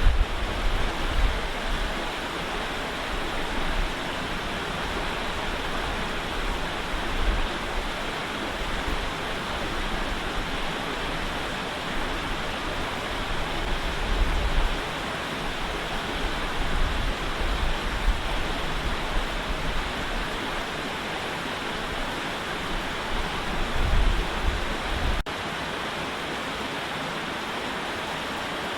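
Steady hiss of heavy rain, with gusts of low wind rumble underneath. About 25 seconds in there is a click, and the rumble drops out, leaving an even rain hiss.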